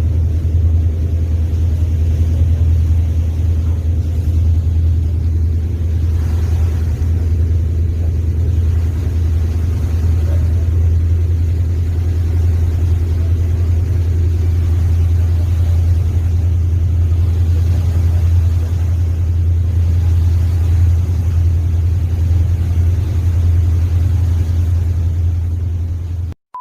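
Steady low engine drone of the passenger ship KM Theodora 2, a deep hum with a stack of even tones above it. It cuts off abruptly near the end.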